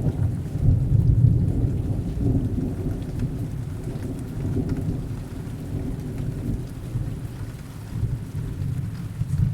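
Heavy rain with a low, rolling rumble of distant thunder. The rumble is loudest in the first couple of seconds, then slowly dies away under the steady rain.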